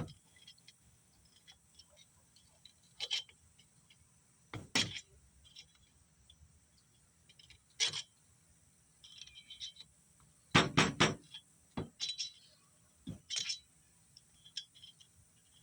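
Scattered light metallic clicks and clinks from small hand tools and a snap ring being worked into an HX35W turbo's bearing bore. The clicks are irregular, with the loudest cluster of several sharp clicks about ten to eleven seconds in.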